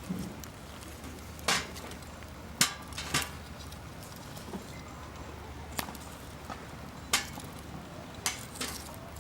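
Wood campfire crackling: irregular sharp pops and snaps of burning wood, several seconds apart at times and in quick pairs at others, over a steady faint background.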